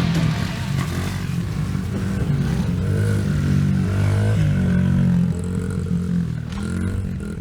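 Small 50cc pit bike engine revving up and down repeatedly as it is ridden, the pitch rising and falling every second or so.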